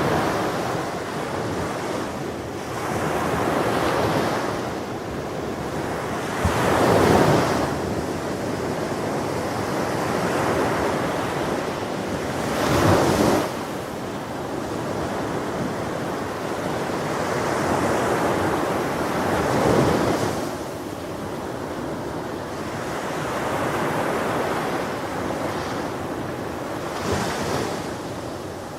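Ocean waves breaking on a shore: a continuous wash of surf that swells and falls back every few seconds, with the biggest breakers about 7, 13 and 20 seconds in.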